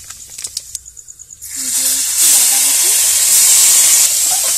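Wet boiled cabbage hitting hot oil and spices in an iron wok (kadai): a loud hissing sizzle of water on hot oil that starts suddenly about a second and a half in, after a few faint crackles from the spices frying.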